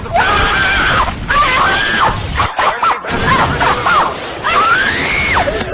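A person's voice making a string of loud, high-pitched squeals, about five, each rising, holding, then dropping in pitch.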